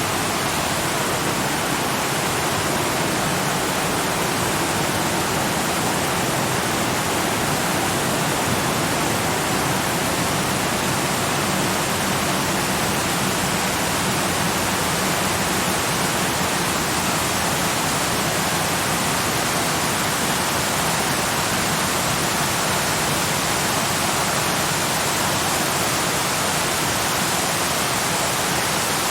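Waterfall rushing in a steady, even roar of falling water, without change.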